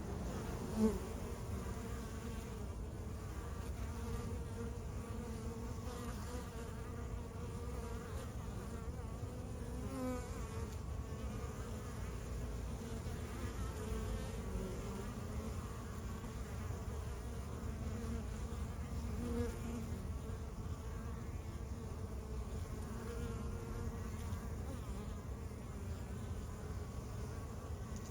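A honey bee colony in a log hive buzzing steadily. Now and then a single bee passes close and its buzz swells briefly louder and bends in pitch.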